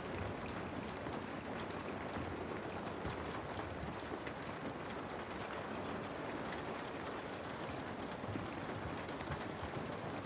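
Steady rain falling, a continuous even hiss with many small drop ticks, billed as rain on a window.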